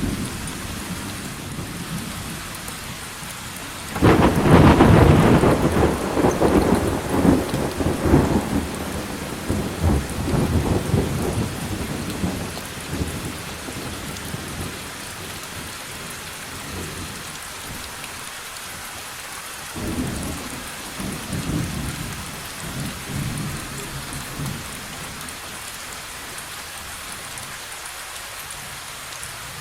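Steady rain with a thunderclap about four seconds in that rumbles and dies away over several seconds, and a second, fainter roll of thunder about twenty seconds in.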